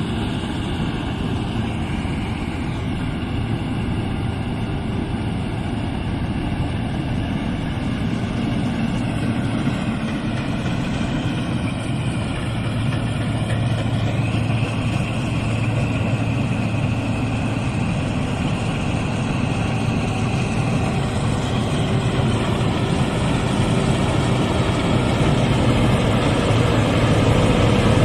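Rice combine harvester's engine and threshing machinery running steadily, a dense mechanical rumble with a wavering whine, growing slowly louder toward the end.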